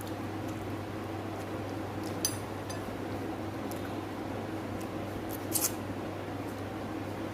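Eating sounds from a meal of fish curry and rice: small clicks and clinks against a plate, two at about two seconds in and a louder pair about five and a half seconds in, over a steady low hum.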